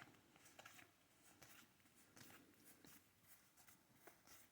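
Near silence with faint, soft clicks and rustles of Pokémon trading cards being handled and flipped through.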